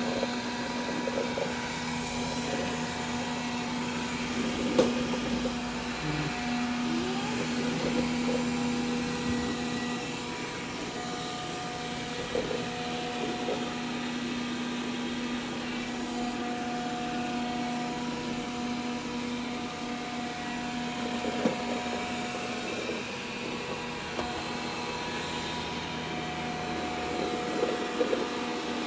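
Dreame D10 robot vacuum running in cleaning mode: a steady motor hum with a held whine, and a few short knocks along the way.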